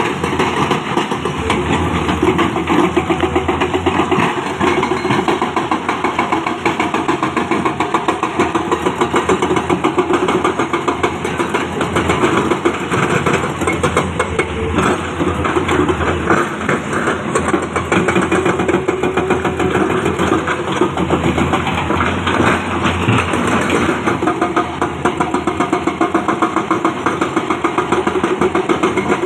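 Diesel engine of heavy earthmoving equipment running steadily with a rapid, even pulse.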